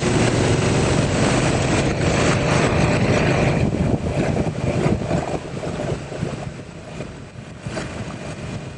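Wind buffeting the microphone of a 2019 Honda Africa Twin DCT motorcycle under way, mixed with its engine and tyre noise. It starts abruptly and eases a little about halfway through.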